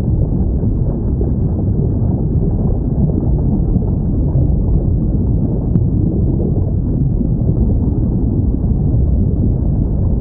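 Steady low underwater rumble of a whale-sound hydrophone recording, with no whale call standing out and a single faint click about six seconds in.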